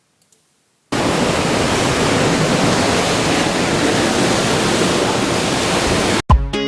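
Steady rushing of wind and sea water from a cruise ship's balcony while under way, starting suddenly about a second in and cutting off abruptly near the end, where music begins.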